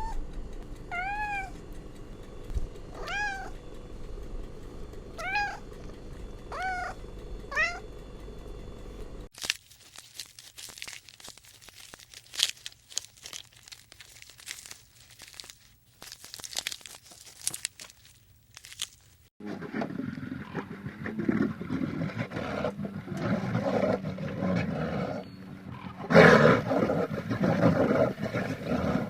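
Cat meowing about six times in the first third, each short call rising and then falling in pitch. The recording then cuts to about ten seconds of scattered clicking and crackling, and then to a denser, louder stretch of noise that cannot be identified.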